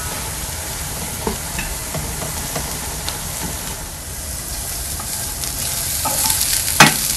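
Diced carrots sautéing in oil in a frying pan, a steady sizzle, while a wooden spoon stirs shredded chicken in sauce in an aluminium pot with light knocks against the metal. About six seconds in the sizzle gets louder as the carrots are stirred, and the spoon clacks sharply on the pan near the end.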